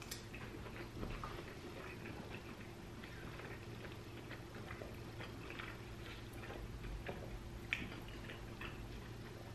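Close-miked eating: soft chewing with small wet mouth clicks and ticks from a forkful of food. A faint steady electrical hum sits underneath.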